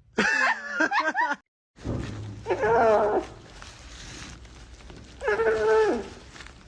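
Cat meowing: a wavering call of about a second, then after a brief gap two more separate drawn-out meows a couple of seconds apart.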